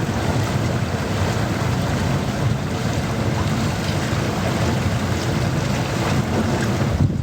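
Motorised bamboo raft running steadily under way on a river, a low engine hum under the noise of water and wind buffeting the microphone.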